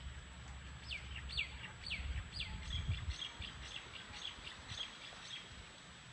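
A bird singing: a run of falling whistled notes about twice a second, then a faster series of short, higher notes, fading out before the end.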